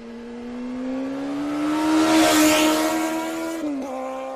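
Motorcycle engine running and accelerating, its note climbing steadily, with a rush of wind and traffic noise that peaks midway. The engine note drops a little near the end.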